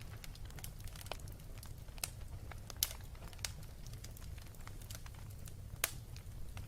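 Fire burning with irregular crackles and pops over a low steady rumble; two louder pops come about three seconds in and just before the end.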